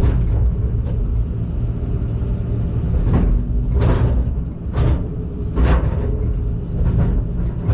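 Heavy machine's engine running steadily with a low drone, with a few short sharp knocks between about three and six seconds in.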